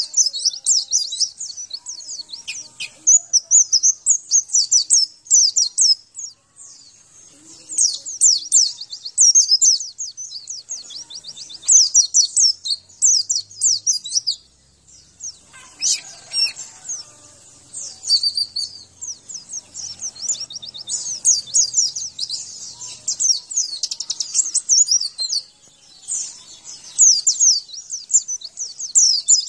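White-eye (pleci) song: high, rapid, chattering trills in phrases a second or two long, separated by short pauses.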